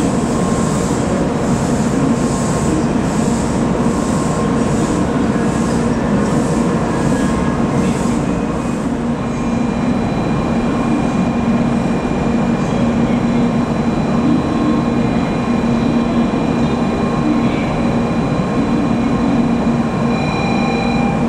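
N700A Shinkansen train creeping into the platform and coming to a stop, with a rhythmic high hiss that slows and ends about eight seconds in. The standing train then gives a steady electrical hum with a thin high whine.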